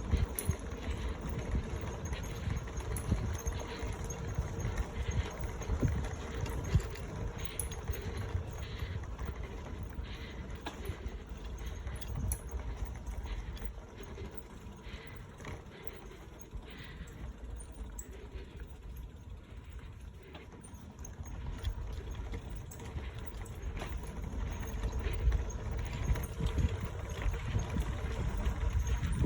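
Bicycle tyres clattering over the planks of a wooden boardwalk, a run of small knocks, with wind rumbling on the microphone. It goes quieter for several seconds about halfway through.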